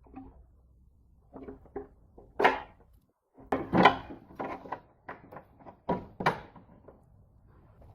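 Irregular knocks and clinks of parts and tools being handled during reassembly, with a brief dropout a little after three seconds in.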